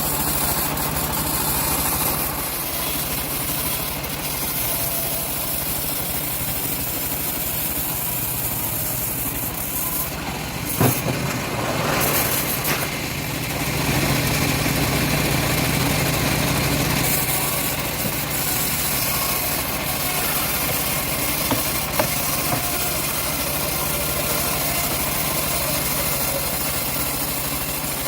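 Engine of a homemade bandsaw mill running steadily, with one sharp knock about eleven seconds in and a somewhat louder stretch a few seconds later.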